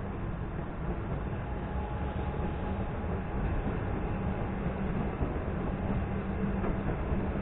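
Electric suburban train running over the tracks: a steady rumble of wheels on rail, growing a little louder near the end.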